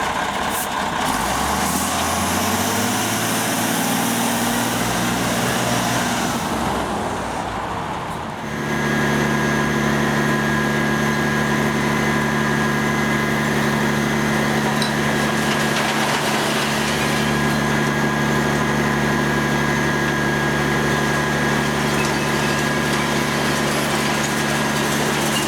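Recycling truck engine pulling away, its pitch rising in steps through the first several seconds. About eight seconds in it changes abruptly to a steady, even engine note with a thin high whine over it.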